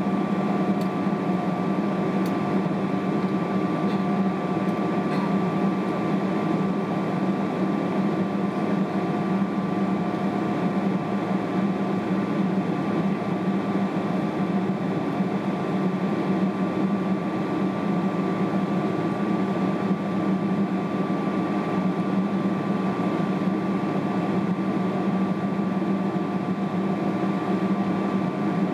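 Steady cabin drone inside a Boeing 777-300ER holding on the ground before takeoff, with a few constant hum tones running through it.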